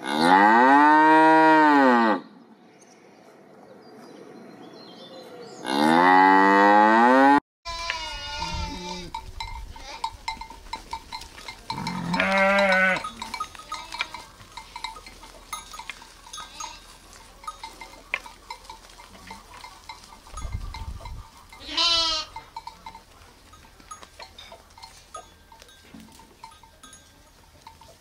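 A calf mooing twice, two long loud calls, the first rising then falling. After a break, sheep and lambs bleating a few times with a wavering pitch, over a faint steady high tone.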